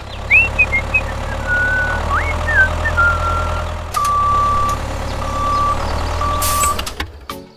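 A vehicle engine running steadily with a few short squeaky glides in the first few seconds. Then a reversing alarm beeps three times, the first beep the longest, and the engine sound cuts off about seven seconds in.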